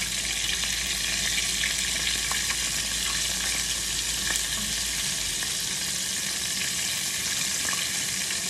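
Vegan chicken nuggets frying in hot oil, a steady sizzle.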